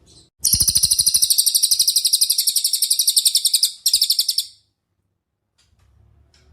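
Cililin songbird singing a fast, rapid-fire trill of sharp high notes, about a dozen a second for some three seconds, then a short break and a brief second burst before it stops.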